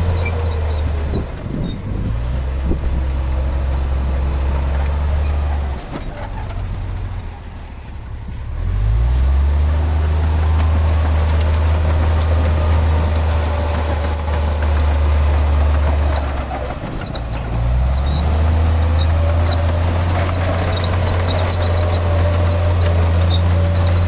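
Large diesel engine of heavy earthmoving machinery running under load. Its low drone eases off twice, at about 6 to 9 seconds in and again around 17 seconds, then picks back up each time.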